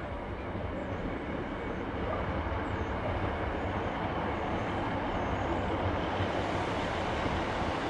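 East Midlands Railway Regional diesel multiple unit passing close by, a steady rumble of diesel engine and wheels on the rails that grows louder over the first couple of seconds as the train draws level, then holds.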